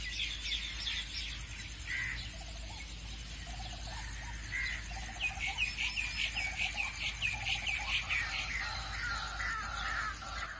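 Birds chirping and calling: runs of quick high chirps, several a second and busiest in the second half, over some lower whistled notes.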